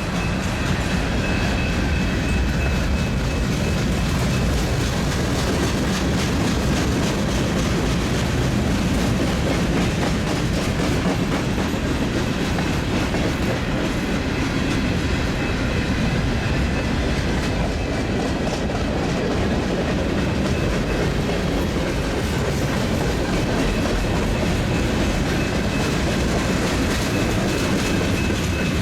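Freight train cars rolling steadily past, the steel wheels clicking over the rail joints under a continuous running noise, with a thin faint squeal above it.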